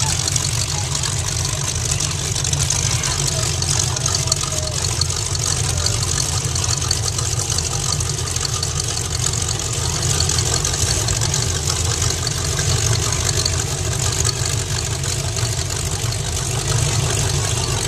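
Demolition derby cars with exhaust pipes poking up through their hoods, running at low speed as they roll past one after another. A steady, low engine sound with no sharp changes.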